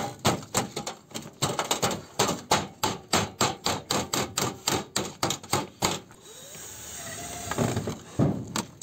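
Rapid hammering on sheet metal, about five or six blows a second, stopping about six seconds in; a softer rising noise follows, then a couple more blows near the end.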